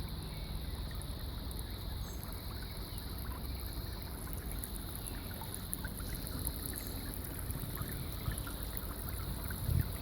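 Steady trickle of running water from a garden fountain or spring, with a few faint high bird chirps.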